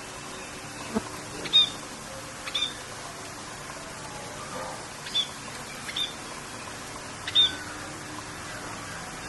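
Short, sharp bird calls repeated every second or two over a steady hiss of rain.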